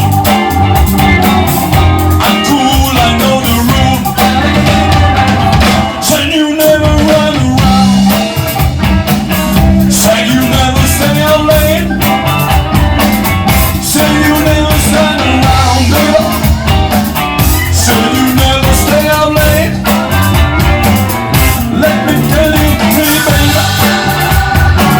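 Blues-rock band playing a song with drum kit, guitar and singing.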